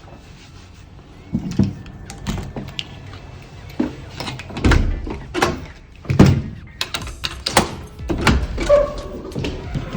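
A series of irregular knocks, clunks and thuds, some with a deep thump, starting about a second in.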